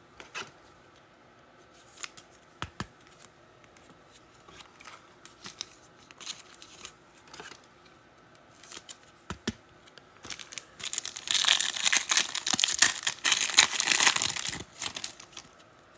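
Trading-card packs being handled and torn open: scattered soft clicks and rustles, then about four seconds of continuous foil-wrapper tearing and crinkling near the end.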